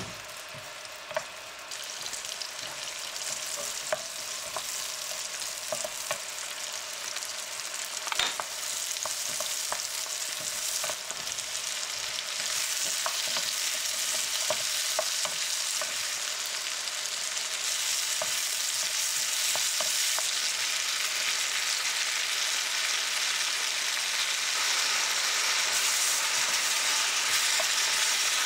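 Vegetables and other ingredients sizzling in hot chili oil in a wok, stirred with a wooden spatula that knocks against the pan a few times. The sizzle grows louder and denser about twelve seconds in.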